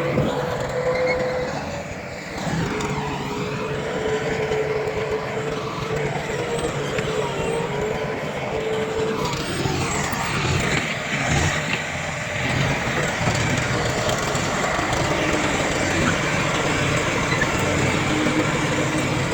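Heavy diesel earthmoving machinery running steadily, a bulldozer and dump trucks at work, with a wavering whine over the engine noise during the first half.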